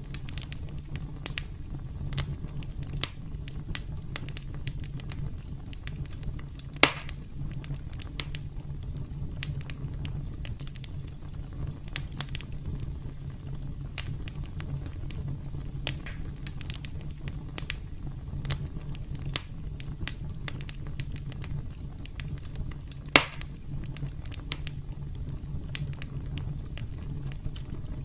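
Campfire crackling over a steady low rumble of flames, with frequent small snaps and two louder pops, one about a quarter of the way in and one near the end.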